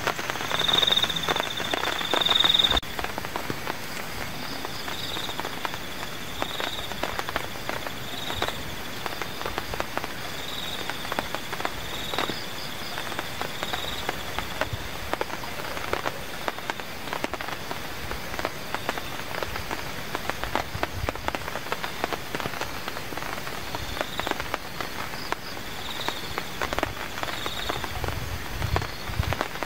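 Steady rain pattering, with many small drips and taps. It is heavier for the first few seconds, then settles to a lighter patter. A short, high chirping call repeats every second or two.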